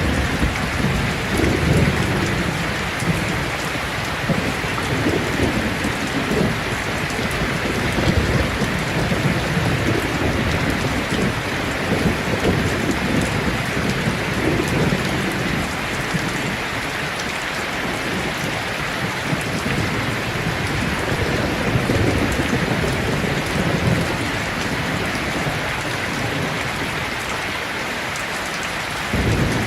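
Heavy rain drumming steadily on a tin roof, with low rolling thunder rumbles swelling and fading several times.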